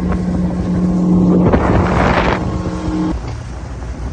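Motorboat engine running with a steady hum that stops about three seconds in. A short burst of rushing noise comes about halfway through.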